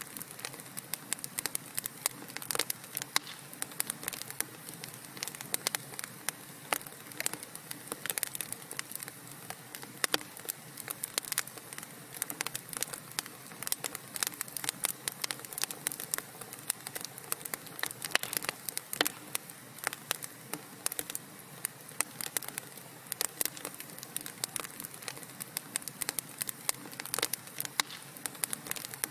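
Wood fire in a fireplace crackling, with dense, irregular sharp pops and snaps over a low steady hiss.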